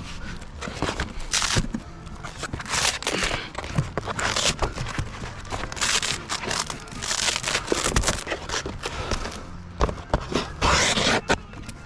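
Roofing work: repeated scraping, rustling and tearing of shingles or underlayment, several short bursts a second or so apart, with scattered sharp knocks and clicks.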